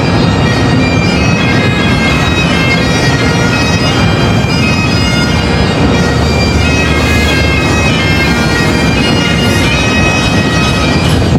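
Bagpipes playing a tune: steady drones under a chanter melody that moves from note to note.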